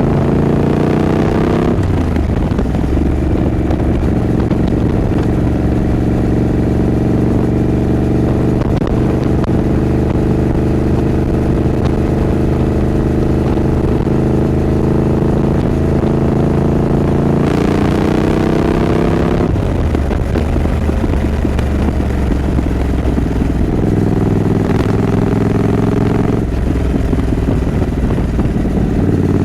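Triumph Scrambler 900's parallel-twin engine under way: the revs climb about two seconds in, fall as the gear changes, then hold steady while cruising. About two-thirds of the way through the revs rise again with another shift, then settle into a steady run.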